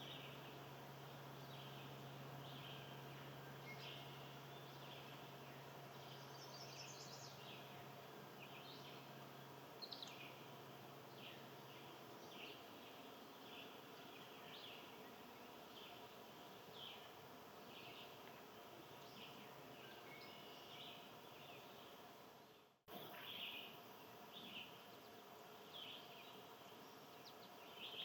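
Faint outdoor ambience with a small bird chirping over and over, about once a second, and a steady low hum through the first half. The sound cuts out for a moment about two-thirds of the way through.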